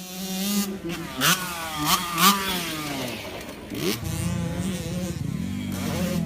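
Dirt bike engine revving, rising and falling sharply several times, then running steadier from about four seconds in. It starts abruptly.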